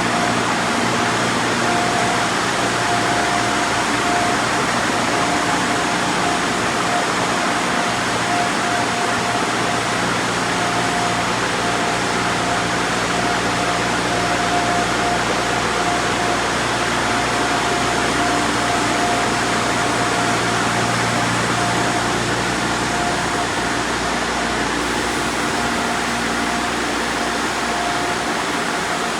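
LaserWash G5 touchless car wash running: a steady rushing noise with a constant hum and a steady tone.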